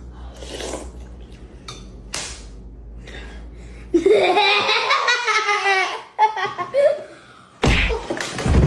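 A person laughing for about two seconds, starting about four seconds in, after a stretch of scattered rustling noise over a low hum; a loud low rumble comes near the end.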